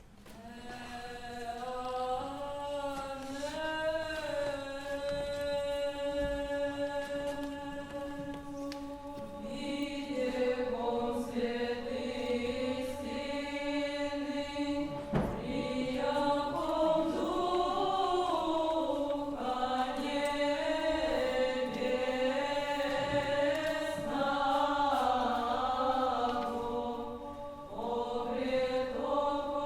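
Unaccompanied Old Russian chant: one long sustained sung line at first, slowly bending in pitch, joined by more voices about a third of the way in for a fuller choral sound.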